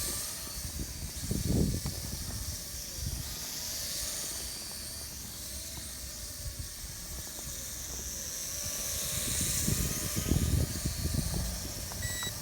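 Small toy quadcopter drone's propellers buzzing as a high hiss that swells and fades as it flies, with low rumbling noise coming and going. A short electronic beep near the end.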